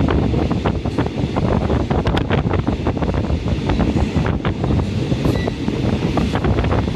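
Train running along the track heard from inside the carriage: a steady low rumble with frequent clattering and rattling, and wind buffeting the microphone.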